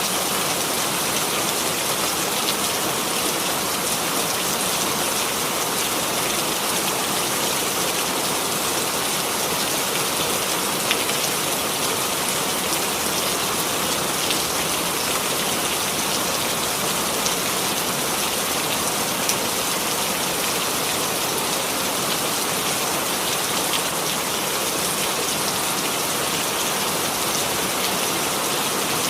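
Steady rainfall, an even hiss with scattered drop ticks.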